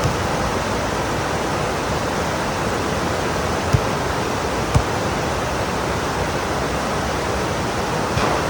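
Heavy pouring rain, a steady even hiss, with two sharp taps about a second apart a little before halfway through.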